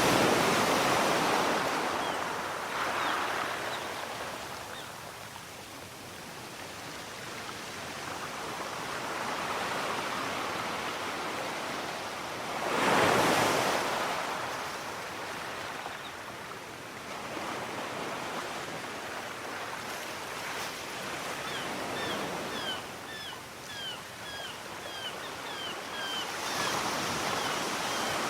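Sea surf: waves breaking and washing in slow swells, the loudest breaker about halfway through. In the last quarter, seagulls give a run of short, downward-sliding calls, about two a second.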